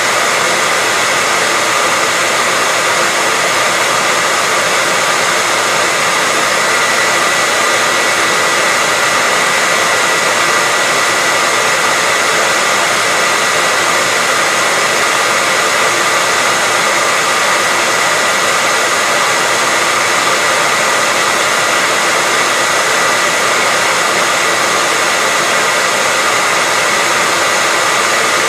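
Hair dryer running steadily: an even rushing blow of air with a constant high whine from the motor and fan.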